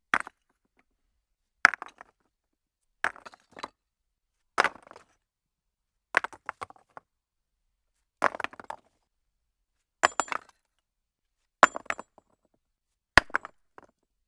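Sharp clinking, cracking knocks of hard objects striking, in short clusters about every one and a half seconds, nine or so in all, with silence between.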